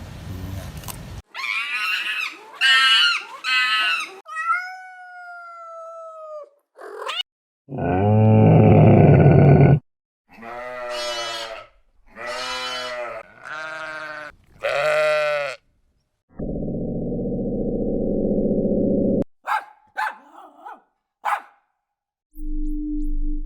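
A string of separate farm-animal calls cut one after another with short gaps: several pitched cries and bleat-like calls, a low rough sound lasting about three seconds, and a few short sharp calls near the end.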